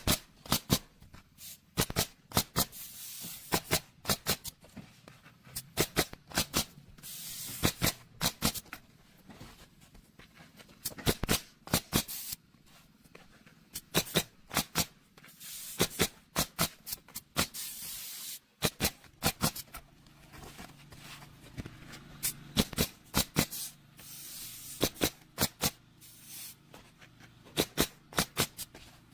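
Pneumatic roofing nail gun firing in quick clusters of two to four shots, again and again, with spells of air hiss between the clusters.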